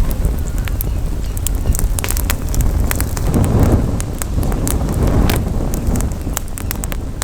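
Campfire crackling, with many sharp pops, over a steady low rumble of wind on the microphone.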